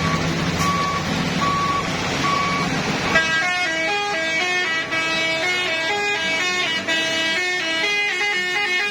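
Heavy truck running with road noise. About three seconds in, a loud multi-tone horn starts playing a stepping tune of changing pitches.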